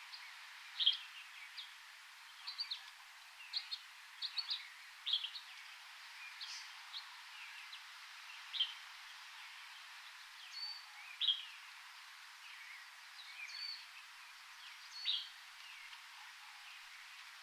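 Birds chirping in a forest: many short, sharp calls scattered irregularly, some in quick runs of two or three, over a steady background hiss.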